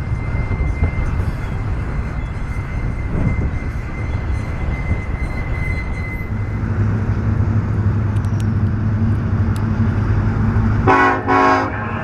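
Union Pacific freight train passing with a steady rumble and the drone of its diesel locomotives, which grows steadier from about halfway. Near the end the locomotive's air horn gives a short blast in two parts.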